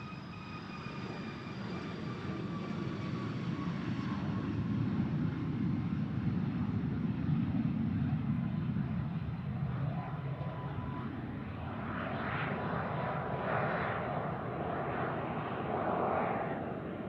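Light aircraft engine passing. It grows louder to a peak about seven seconds in and then fades, with a high whine that slowly drops in pitch.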